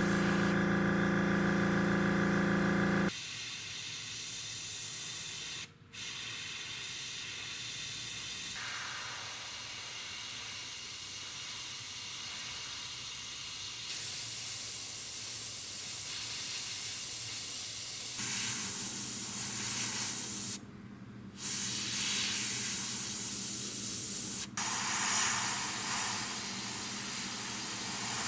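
Airbrush spraying paint: a steady hiss of air that drops out briefly twice as the trigger is released. For the first three seconds a low steady hum with overtones runs under it.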